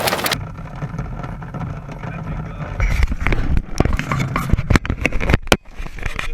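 Heavy rain hiss cuts off abruptly just after the start, leaving the low rumble of a vehicle with scattered knocks and thumps, busiest between about three and five and a half seconds in.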